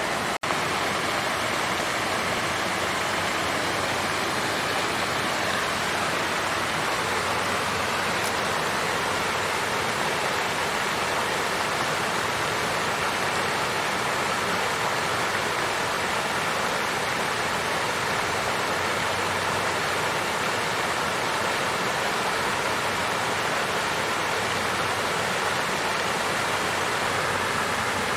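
Water fountain with water flowing and splashing steadily. The sound cuts out for an instant about half a second in, then carries on unchanged.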